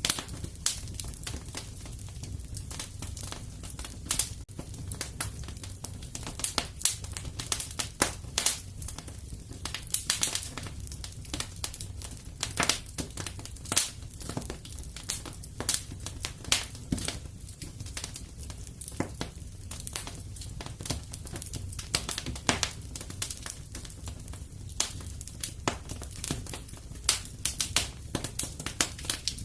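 Wood fire in a fireplace burning with irregular crackles and pops over a steady low rumble of the flames.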